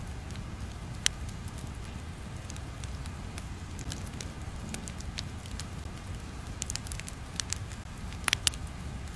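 Ambient crackling: irregular sharp pops and crackles over a low, steady rumble, with one loud pop about a second in and a cluster of louder pops near the end.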